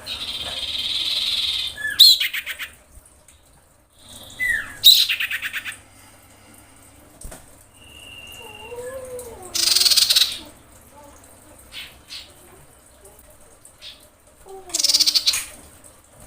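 Female common iora in breeding condition giving its call to attract a male. Harsh, buzzy chattering calls come in separate bursts: one right at the start, others about two and five seconds in, near the middle and near the end. Short down-slurred whistled notes fall between them.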